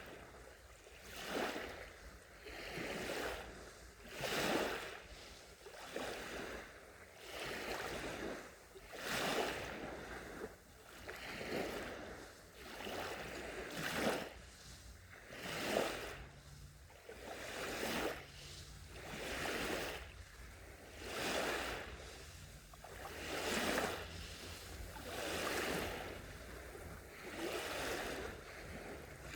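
Small sea waves breaking gently on a shore, a hissing wash that swells and fades every one and a half to two seconds. A faint low hum sits beneath it for a few seconds partway through.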